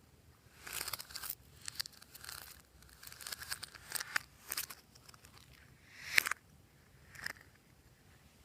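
Glossy slime mixed with floam beads being squeezed and stretched by hand, giving short bursts of crackling and popping with brief pauses between them. The sharpest pop comes about six seconds in.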